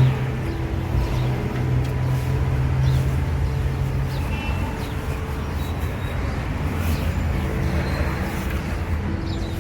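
A steady low motor hum that fades out about four seconds in, over a continuous low rumble like engine or road-traffic noise.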